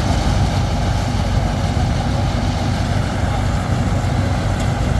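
Combine harvester engine running steadily, a loud, even low hum.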